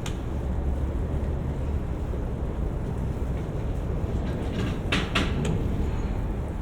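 Low rumble of wind on the microphone and road traffic during a bicycle ride, with a short cluster of sharp clicks or rattles about five seconds in.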